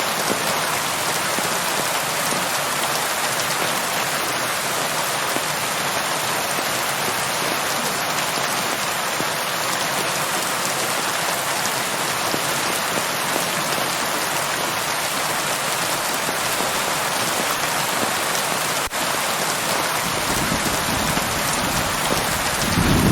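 Steady heavy rain falling and pattering on surfaces, an even hiss. Near the end a low rumble of thunder builds and grows louder.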